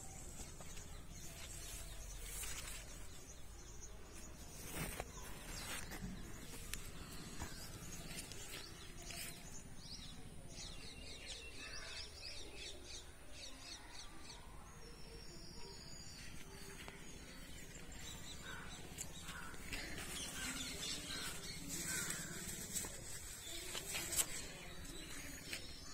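Small birds chirping in short repeated calls over a steady outdoor background hum, with a few faint clicks scattered through.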